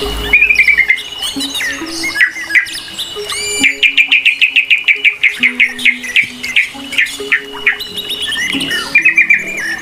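Several birds chirping and calling, with a fast run of repeated chirps starting about four seconds in, over a steady high whine and soft sustained low notes of background music.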